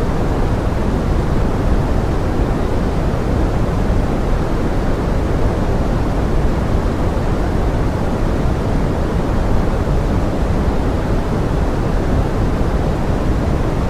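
Pink noise blended as forest rain: a steady, even hiss that is deepest in the low pitches and thins out toward the top, with no breaks or single drops standing out.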